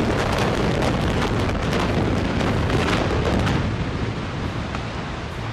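A building collapsing: a heavy rumble with dense crackling and clattering of falling debris, loud at first and dying away after about three and a half seconds.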